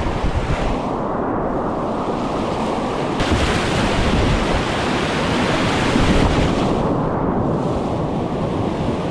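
Loud, steady rush of river whitewater mixed with wind buffeting the microphone, hissier for a few seconds in the middle.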